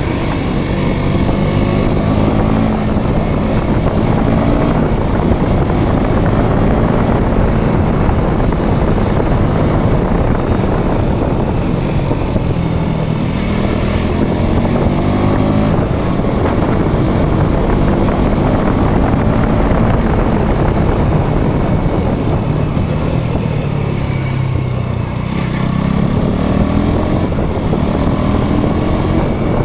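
Motorcycle engine running while being ridden, its pitch rising and falling as it accelerates and eases off, with a dip a little before the end followed by a rise again, over wind and road noise.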